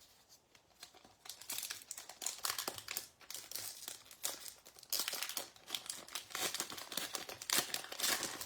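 Foil wrapper of a trading card pack being torn open and crinkled by hand, starting about a second in with a dense run of crackles.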